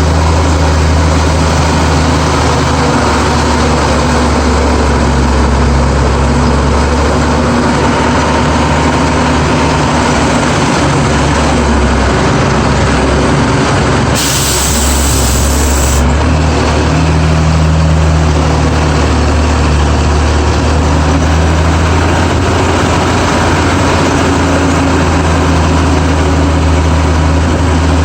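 GMC DUKW amphibious truck's engine running steadily under way, heard from on board, with a brief hiss about halfway through.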